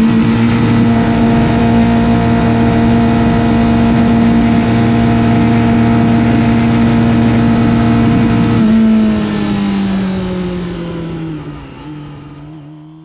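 Yamaha YZF-R6's inline-four engine, heard on board, holding steady revs; about nine seconds in the revs drop and the engine sound falls away, fading out near the end.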